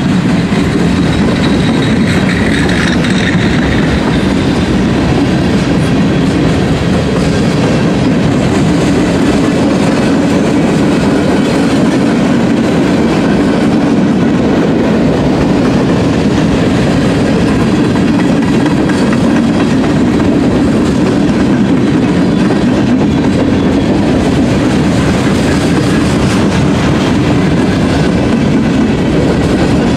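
Cars of a mixed freight train rolling past at close range: a steady, loud rumble of steel wheels on rail.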